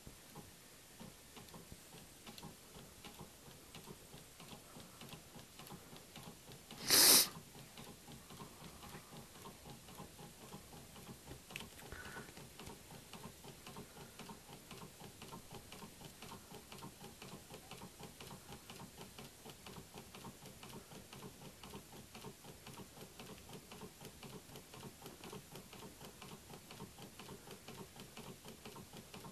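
Small homemade laminar flow (thermoacoustic) engine running, its glass syringe piston and flywheel making a rapid, even ticking. A brief loud rushing burst comes about seven seconds in.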